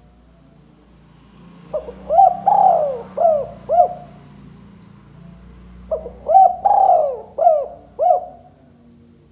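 Spotted dove (tekukur) cooing: two phrases of about five coos each, the second starting about six seconds in.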